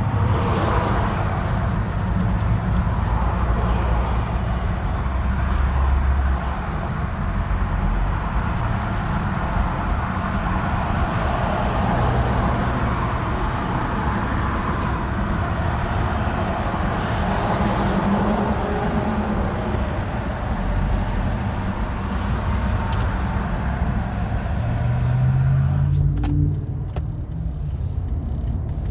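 Motor vehicle engines and road noise: a steady low drone, with an engine's pitch rising a little near the end and a few sharp clicks after it.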